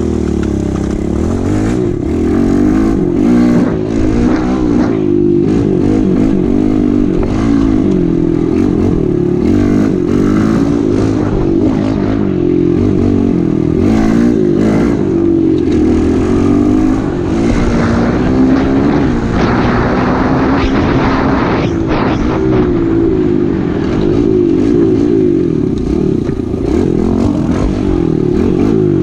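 Pit bike engine being ridden hard, its pitch rising and falling with the throttle, with a few knocks and clatters over rough ground.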